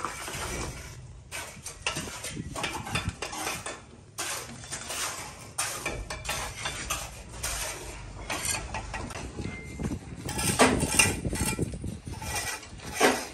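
Irregular metallic clinks and knocks of metal pieces being handled, with the loudest clanks about eleven seconds in and again near the end.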